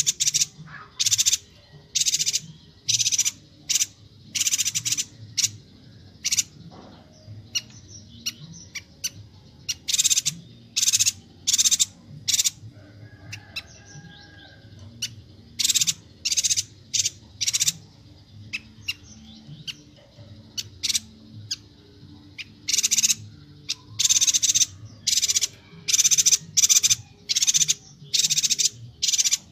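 Yuhina (perenjak batu) calling: quick clusters of short, high chirps with brief pauses between them, over a faint low hum.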